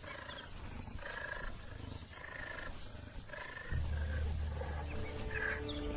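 Wild animal sounds: a low rumble, louder from about two-thirds in, with short repeated higher calls over it; held music tones come in near the end.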